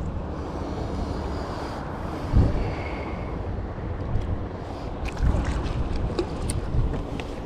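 Strong wind buffeting the microphone while water washes against a kayak, with a sharp gust about two and a half seconds in and more gusts in the second half.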